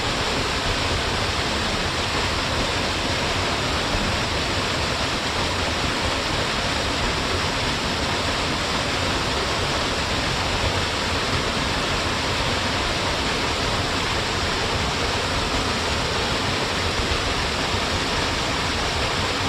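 Small waterfall falling in a narrow straight line into its pool, a steady even rush of water.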